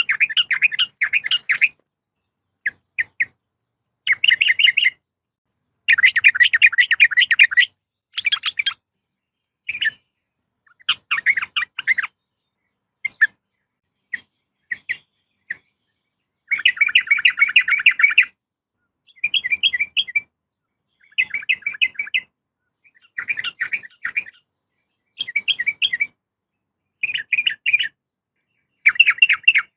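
Yellow-vented bulbul (trucukan) calls in bursts of rapid, bubbly chattering notes, half a second to two seconds long, with short silences between them. The recording is presented as a female calling a male, used as a lure to get caged males singing.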